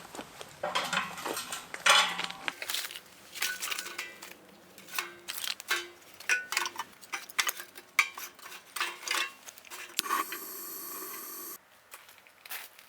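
Steel fire pit being handled and set up for its first fire: a run of irregular metallic clinks and knocks, some ringing briefly. About ten seconds in, a steady hiss lasts over a second and cuts off suddenly.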